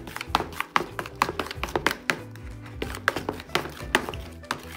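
Background music with steady low bass notes, over irregular sharp clicks and squelchy taps from hands squeezing and stirring a foamy slime mix of glue, shaving cream and baby powder in a plastic bowl.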